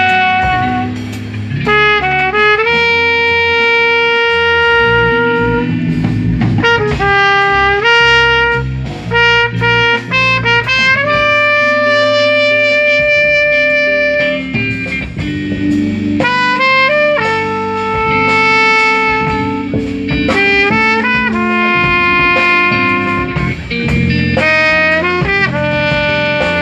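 A live instrumental jazz quintet playing. Trumpet and saxophone carry a melody of long held notes, sliding between pitches, over guitar, bass and drums.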